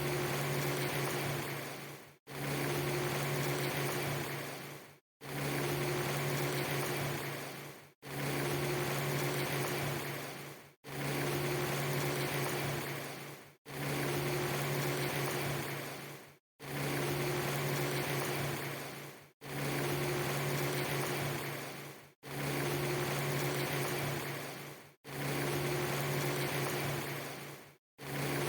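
A steady hiss over a low, even hum, cut into a clip of about three seconds that repeats over and over, with a brief drop to silence at each repeat.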